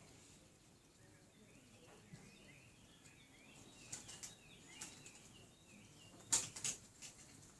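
Faint chirps of small birds. A few short, sharp taps or swishes come in among them, and the loudest two are about six and a half seconds in.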